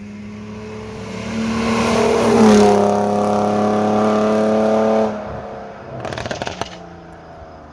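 Rally car engine at high revs approaching and passing, its note dipping in pitch as it goes by, then cutting off abruptly about five seconds in. A short burst of clicking noise follows about a second later.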